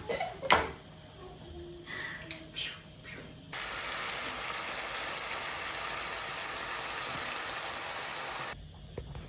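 A few clicks and knocks, then water running steadily for about five seconds, starting and stopping abruptly.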